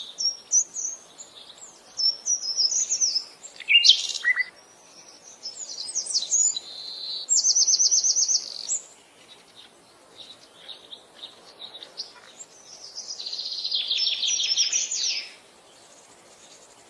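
Songbirds singing: a string of high chirps and short whistled phrases, with two fast trills, one near the middle and a longer one that stops about a second before the end.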